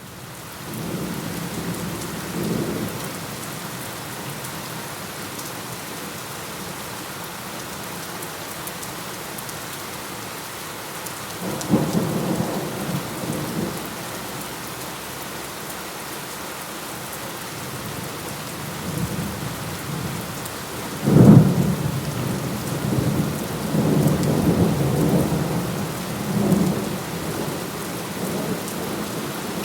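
Steady heavy rain with thunder rolling several times. The rain fades in at the start. The loudest clap comes with a sharp onset about two-thirds of the way through and rumbles on for several seconds after.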